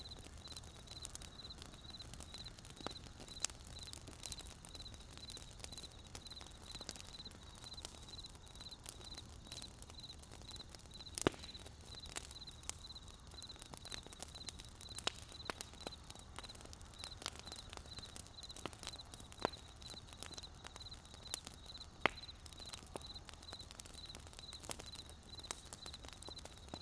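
Wood fire burning with irregular sharp crackles and pops, two louder snaps about 11 and 22 seconds in, over a low steady hiss. A faint, evenly pulsing high note runs underneath.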